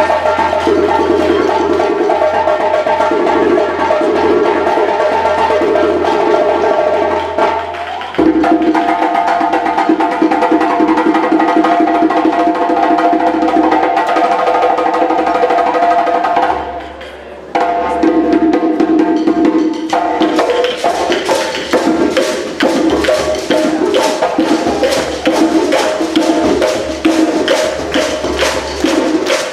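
Percussion-led African drumming music: fast hand-drum strokes and a sharp wood-block-like clack over steady pitched tones. The music shifts abruptly about eight seconds in and dips briefly around seventeen seconds in.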